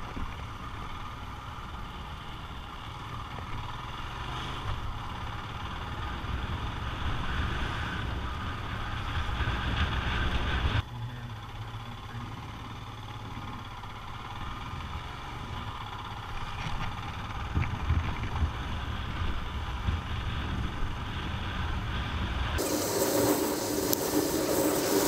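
Royal Enfield Himalayan's single-cylinder engine running steadily as the motorcycle rides along, with road noise. The sound breaks off abruptly about eleven seconds in and picks up again. Near the end a louder rushing noise takes over from the engine sound.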